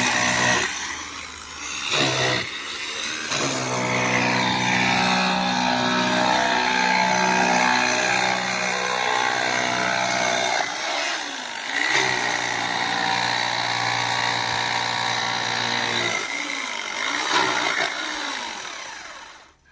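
Electric drill motor running. Its pitch climbs as it speeds up, dips and recovers a couple of times, and it winds down just before the end.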